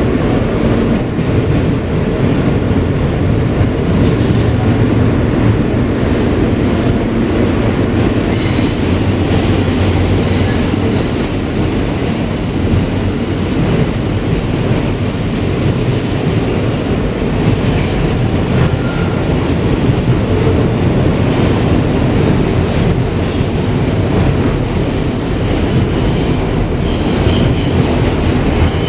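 NYC subway R160B car running on the rails, heard from inside the car: a steady low rumble of wheels and track. About a third of the way in, a high-pitched wheel squeal sets in, held for several seconds and then coming and going.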